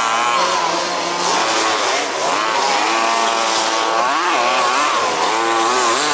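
Several 1/5-scale RC buggies' small two-stroke petrol engines running together, revving up and down in overlapping, rising and falling whines as they race round the track.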